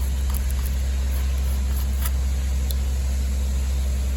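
Steady, unchanging low hum of machinery running, with a few faint clicks.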